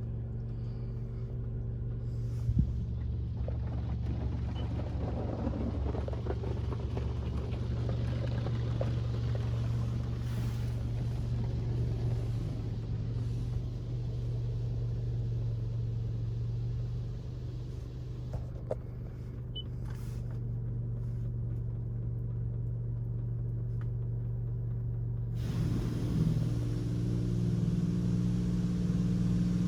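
Steady low hum and rumble of a touchless car wash cycle heard from inside the car's cabin, muffled, with more hiss and a second tone coming in near the end.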